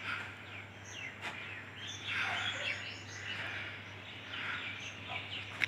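Birds chirping and calling in several short bouts, over a faint steady low hum.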